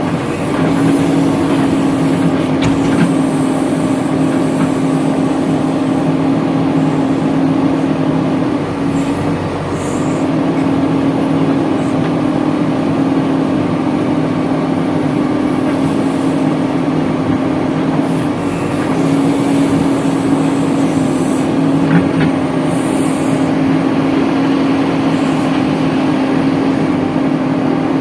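Diesel engine of a JCB 3DX backhoe loader running steadily at high revs while digging and loading mud. Its pitch sags briefly twice, about a third and two-thirds of the way through, with a couple of light clanks.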